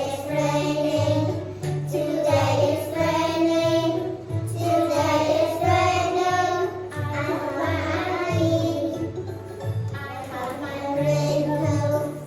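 A song: a high sung voice in phrases over a repeating bass line.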